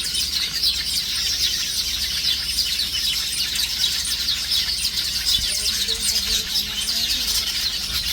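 A flock of small birds chirping continuously, a dense chatter of many quick high notes overlapping.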